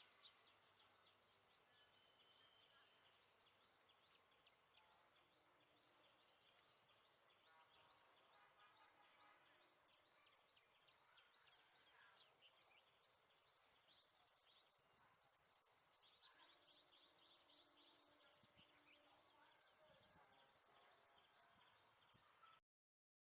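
Faint birdsong: many short chirps and calls from several birds, scattered throughout, over a steady high-pitched whine.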